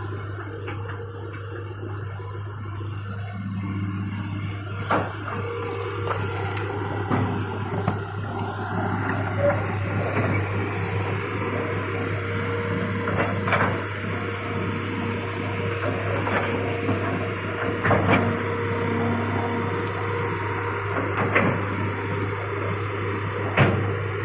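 Excavator engine running with a steady low drone, with occasional sharp metallic clanks and knocks from the machine working, about half a dozen over the stretch.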